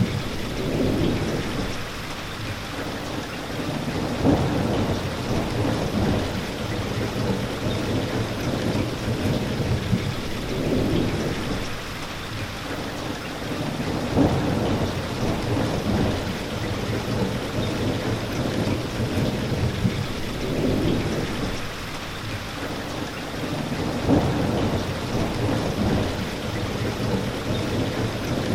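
Steady rain, with low rumbles of thunder swelling and fading every few seconds and a few sharper cracks.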